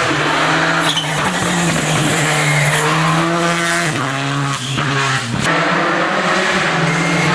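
Rally car on a special stage, its engine held at high revs, with short breaks in the engine note about a second in and again around four and five seconds as the driver changes gear.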